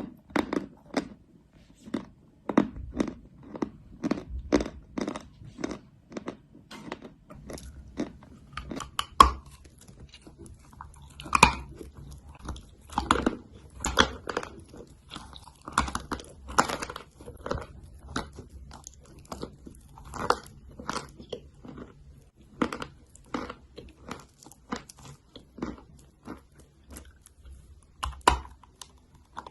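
Close-miked crunching of chalk being bitten and chewed: a quick run of crunches about two a second, then louder, more scattered crunches.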